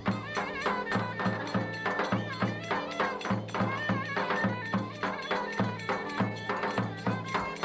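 Traditional folk dance music: an ornamented, wavering reed-like melody over a low drone and a steady, even drumbeat.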